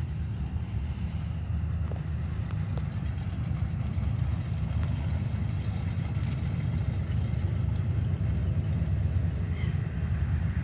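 Distant drag-race car engines idling at the starting line, a steady low rumble.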